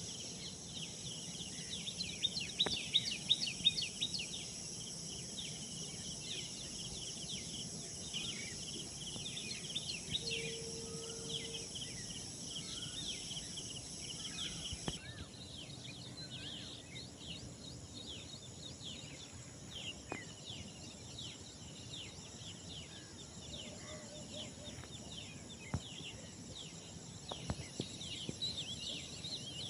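Many small birds chirping and twittering in a morning chorus, over a steady high-pitched hiss. A brief steady low note sounds about ten seconds in.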